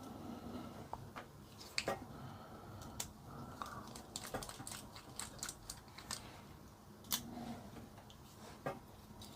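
Irregular small clicks and taps of plastic parts and a small hand tool being handled while a toy remote control helicopter is taken apart.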